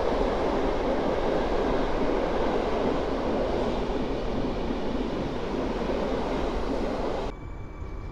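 Passenger coaches of an Intercity express train rolling past on the tracks below, a steady rumble of wheels on rail. It cuts off abruptly near the end, leaving a much quieter background.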